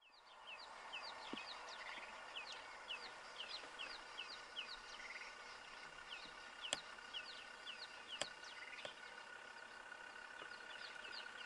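Birds calling in a chorus of quick, repeated falling chirps, several a second, over a steady high drone; two sharp clicks a little past halfway.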